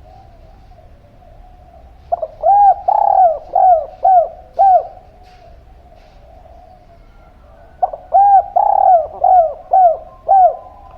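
A dove cooing its song twice. Each phrase is a short opening note and then a quick row of about five rounded coos.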